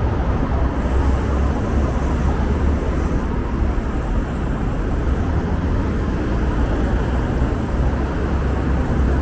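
City street noise heard from a moving bicycle: a steady deep rumble with a hiss, typical of traffic and wind on the microphone while riding.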